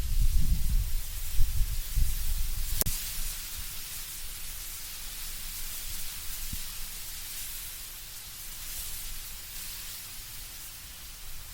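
Wind blowing through autumn trees, the leaves rustling as a steady hiss. Gusty low rumbling comes in the first few seconds, then eases, and there is a single sharp click about three seconds in.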